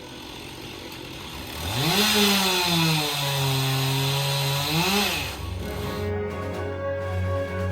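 Chainsaw revving up about two seconds in, then running at a lower, steady pitch as it cuts. It revs once more and dies away about five seconds in.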